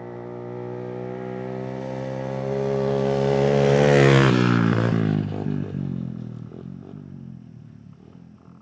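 Dirt bike riding past under throttle: the engine note grows louder and climbs slightly, peaks about four seconds in, then drops in pitch as the bike goes by and fades away.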